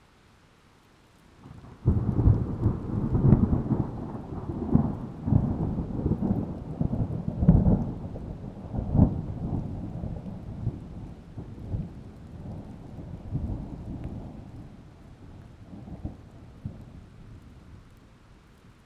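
A sudden deep boom about two seconds in, then a long rumble with repeated crackling peaks that slowly fades away, like rolling thunder.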